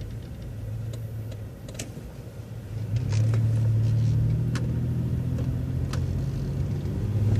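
Transit bus engine heard from inside the bus, a steady low drone that gets louder about three seconds in as the bus pulls through a left turn, with scattered light clicks and rattles.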